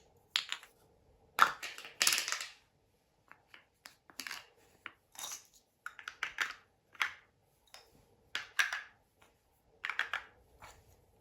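Hard plastic pieces of a LeapFrog Shapes & Sharing Picnic Basket toy being handled and put into the plastic basket: about a dozen irregular clicks, knocks and short scrapes.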